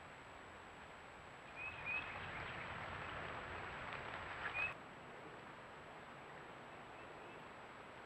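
A few short, high bird chirps over a steady hiss. The hiss grows louder about one and a half seconds in and drops back abruptly just past the middle.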